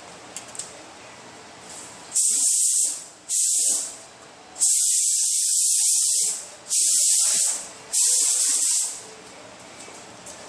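Air-powered paint spray gun spraying epoxy primer in five bursts of hiss, the trigger pulled and released each time, the middle pass the longest at about two seconds.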